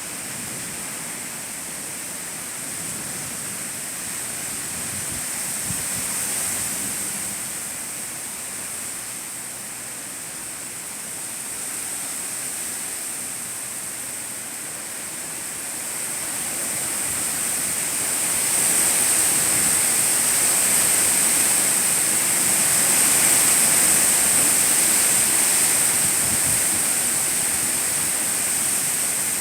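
Storm with strong winds: a steady rushing hiss that swells louder about two-thirds of the way in.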